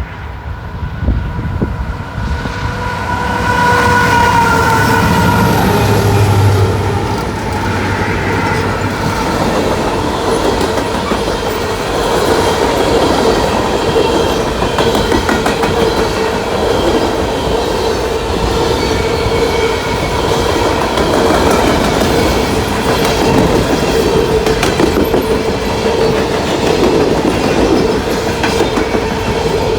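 Freight train passing at speed: the locomotive sounds its horn for about five seconds as it goes by, the pitch dropping slightly, with a low engine rumble at its closest. Then the loaded cars roll past with a steady rhythmic clatter of wheels over rail joints and a steady wheel whine.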